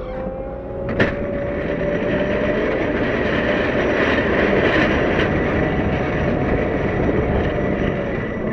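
CAT 908 compact wheel loader's diesel engine working under load, a steady high whine over the engine noise, with a single sharp knock about a second in.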